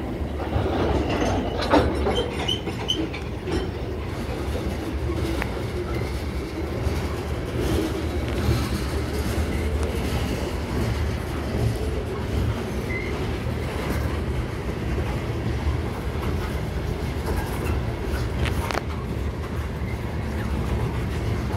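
Freight train of covered hopper cars rolling past slowly as it gathers speed: a steady low rumble of steel wheels on rail, with occasional clicks and knocks.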